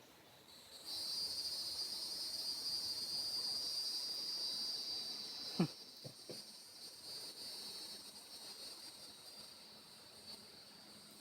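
Cicada buzzing: a steady, high-pitched drone that starts about a second in and slowly fades toward the end. A few sharp clicks sound about halfway through.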